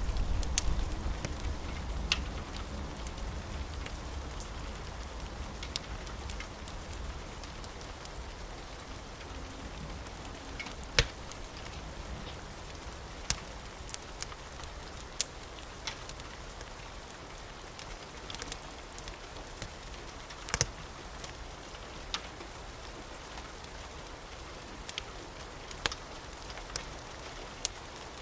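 Steady rain with a wood fire crackling: scattered sharp pops, two of them louder than the rest. A low rumble of thunder dies away over the first few seconds.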